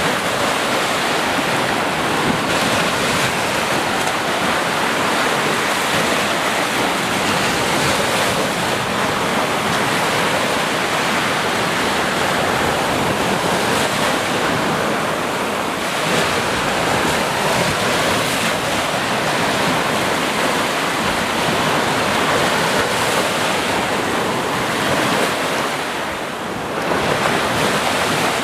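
Sea waves breaking and washing on the shore: a steady, continuous rush of surf, with a short lull in the wash near the end.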